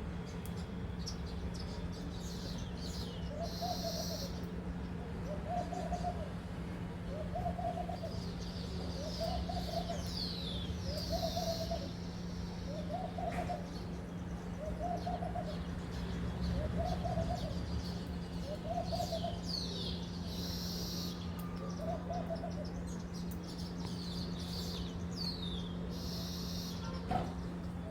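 Baya weavers chirping and chattering in a flock, while another bird repeats a low hooting note about every two seconds. A steady low hum runs underneath.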